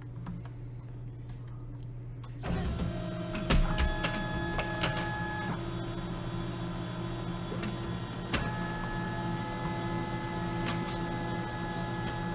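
Printer starting up about two and a half seconds in and printing a page: a motor whine with steady tones that come and go, and scattered clicks. Before it starts there is only a low steady hum.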